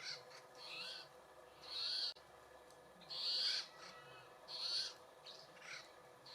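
A wild bird giving a series of short, harsh, raspy calls, about one a second.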